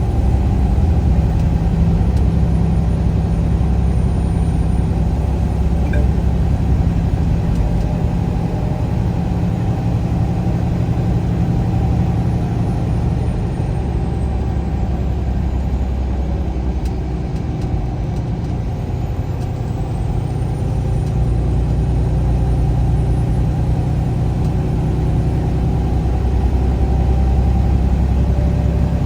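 Motor vehicle driving along a highway: a steady low engine drone with road noise. It eases off a little about halfway through, then builds again.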